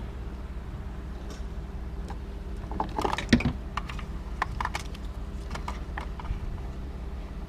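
Small plastic clicks and rattles of a four-wheel-drive vacuum hose connector being worked onto its fitting, densest about three seconds in, over a steady low hum.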